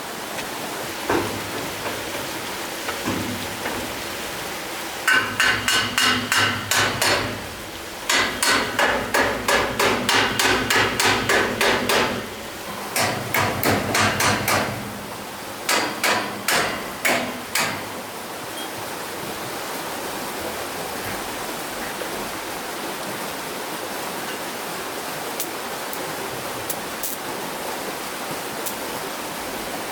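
Hammer blows in several quick runs of about three a second, each blow with a ringing note, over the steady rush of flowing water. The hammering stops a little past halfway, leaving only the water.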